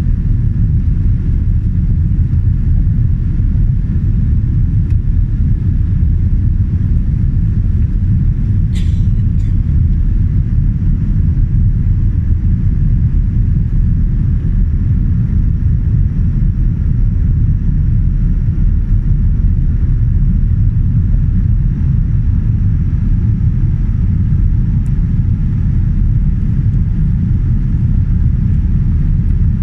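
Steady low rumble of engine and airflow noise inside the cabin of an Air New Zealand Boeing 787 Dreamliner in flight, with a single brief click about nine seconds in.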